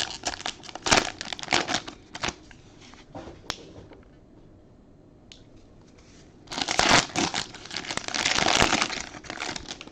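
Trading-card pack wrapper crinkling as it is handled and torn open: scattered crackles at first, then a quiet pause, then a loud stretch of dense crinkling about two-thirds of the way through.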